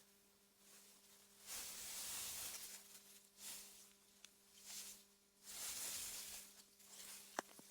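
Soft wind through meadow grass, a gentle hiss that swells and fades in gusts, over a faint steady hum. A single sharp click near the end.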